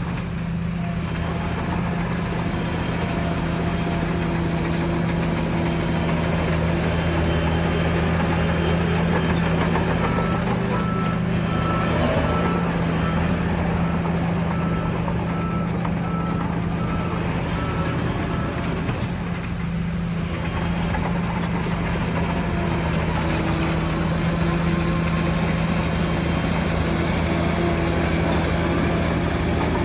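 Heavy diesel earthmoving machinery running steadily, with a reversing alarm beeping in an even rhythm from about a third of the way in, and beeping again in a lower pitch near the end.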